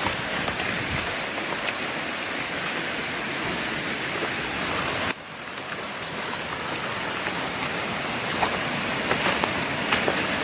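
Steady rushing of a rainforest river running close by, with an abrupt drop in level about halfway through before the rushing returns.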